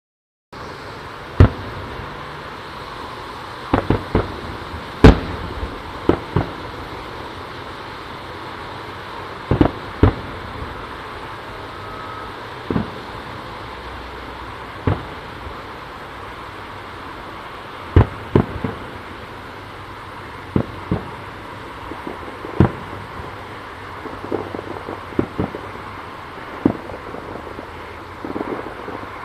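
Aerial fireworks bursting: sharp booms at irregular intervals, some in quick pairs and a cluster of smaller pops near the end, over steady background noise.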